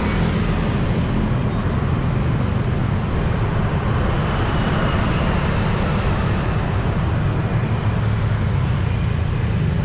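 Steady city street traffic noise: a dense low rumble of vehicle engines and tyres going past without a break.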